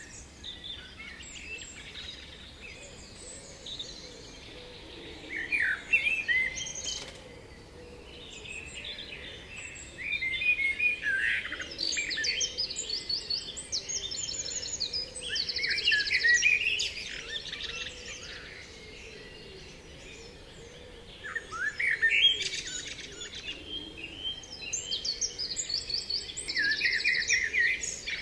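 Songbirds singing: bursts of quick chirps and fast trills every few seconds, with short quieter gaps, over a faint steady background.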